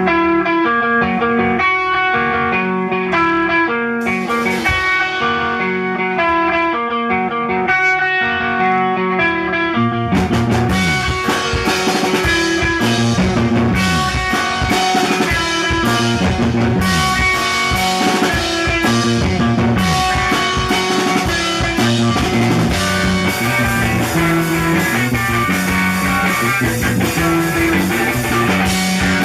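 Blues-rock band playing live: a guitar plays an intro alone, then the drums and the rest of the band come in about ten seconds in and play on at full volume.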